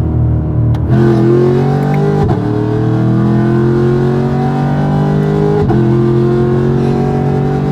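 Car engine accelerating hard, its pitch climbing through the gears with two upshifts, about two seconds in and about six seconds in. The shifts come early: the driver is short-shifting.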